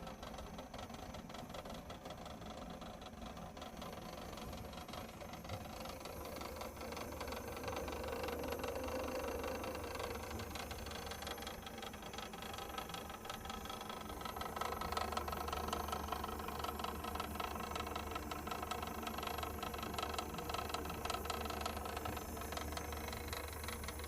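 A steady low mechanical hum, like a motor running, that grows louder about six seconds in and again about fourteen seconds in.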